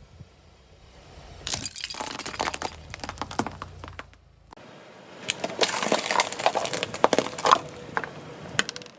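Brittle objects cracking and crunching as a car tyre crushes them: a dense run of sharp snaps over a low rumble, then after a cut a louder burst of cracking and crackling.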